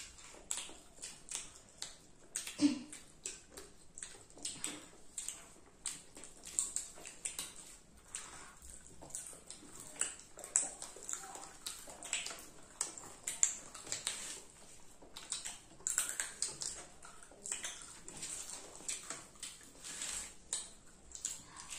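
Children eating popcorn close to the microphone: irregular crunching and wet mouth smacks, a few a second.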